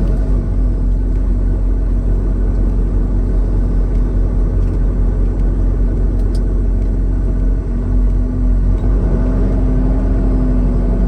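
Semi-truck engine and road noise as heard in the cab while driving: a steady low rumble with a held engine drone.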